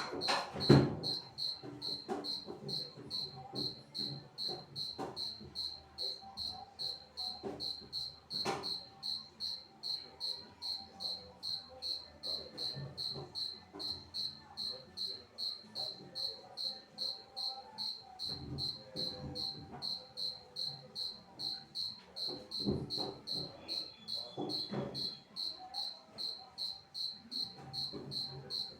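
A cricket chirping steadily, short high-pitched chirps repeating evenly at about two to three a second. Occasional soft knocks and clatter of things being handled.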